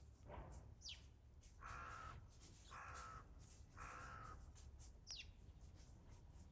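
Crow cawing faintly: three harsh caws about a second apart, with a weaker one just before them. Two brief, high, falling notes are also heard.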